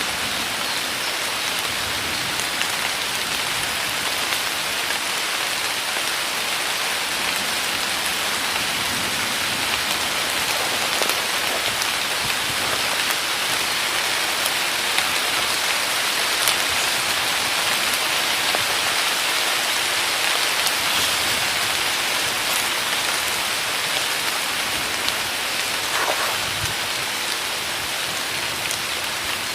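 Heavy downpour in a forest: a steady, even rain hiss with scattered sharper drop ticks.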